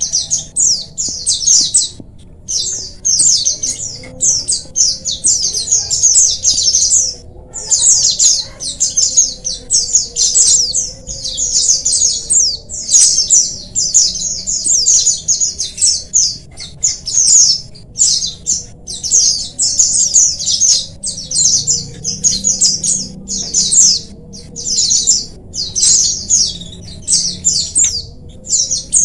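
A flock of white-eyes (pleci) chattering together: dense, rapid, high-pitched chirping that runs on with only brief pauses.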